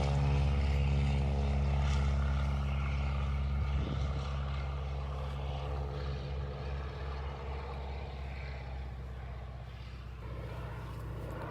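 WW2-era propeller plane's piston engine droning steadily just after take-off, slowly fading as the plane climbs away.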